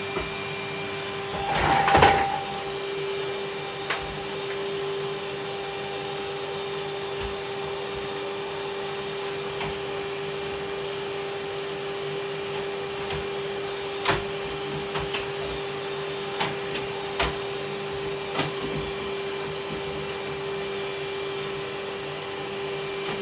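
Vacuum cleaner running steadily with a constant whine, its nozzle clattering loudly about two seconds in, and a series of sharp clicks and knocks later on as it is pushed over the floor and picks things up.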